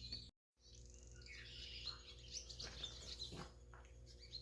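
Birds chirping faintly in the background: a run of short, high chirps and trills. The sound drops out completely for a moment about a third of a second in.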